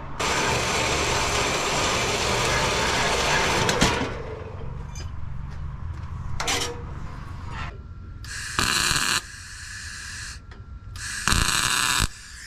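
MIG welder tack-welding exhaust pipe and mufflers: one continuous run of about four seconds, then three short bursts later on, the last two the loudest.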